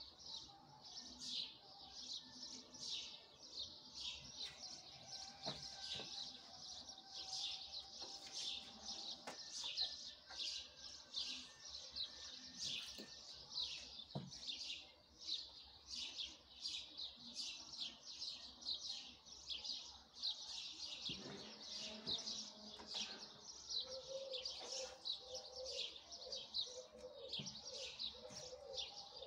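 Small birds chirping steadily in short high chirps, about two to three a second, with a fainter, lower repeated call joining in near the end.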